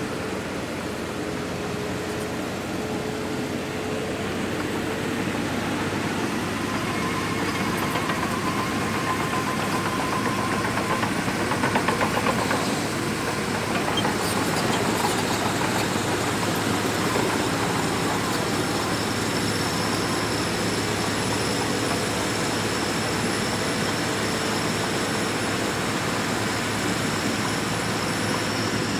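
Shantui DH17C2 bulldozer working sand, its diesel engine running under load. It grows louder a few seconds in, is loudest around twelve seconds, and carries a thin high whine through the second half.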